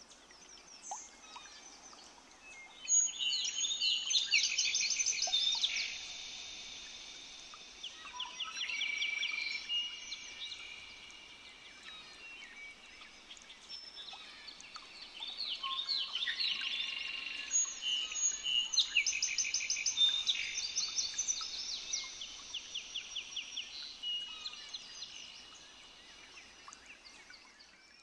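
Birdsong: several birds chirping and trilling. The song is busiest in two stretches, one starting about three seconds in and another around the middle, with a quieter spell between.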